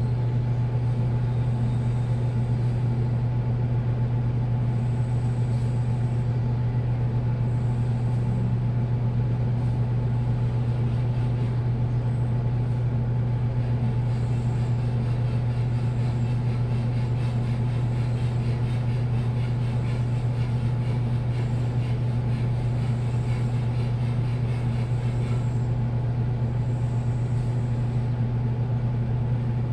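Washing machine spinning at a steady speed, a constant low motor hum with a faint rushing of the turning drum.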